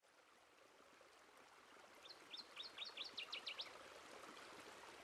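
Faint, steady rushing outdoor ambience, with a small bird singing one quick phrase of about nine sharp, high notes that speed up toward the end, from about two seconds in to nearly four seconds.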